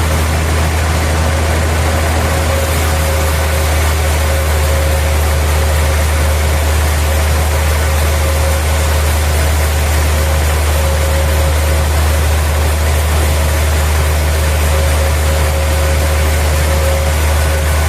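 Sawmill machinery running steadily: a loud, even engine drone with a faint higher tone that fades in and out.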